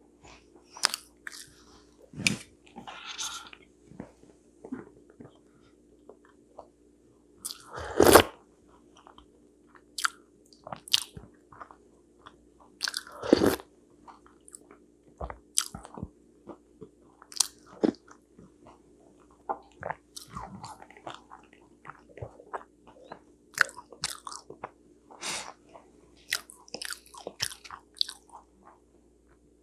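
Close-miked chewing and biting of candied and steamed sweet potato, with soft wet mouth sounds and brief crunches scattered throughout, and a few louder clicks, the strongest about 8 and 13 seconds in.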